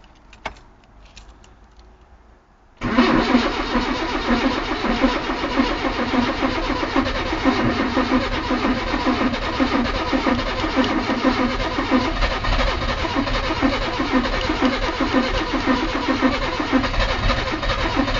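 Engine being cranked over for about fifteen seconds, starting suddenly a few seconds in, with an even pulsing rhythm, turning over without firing. It fails to catch after a new carburettor was fitted; the owner traces the no-start to a faulty new ignition condenser.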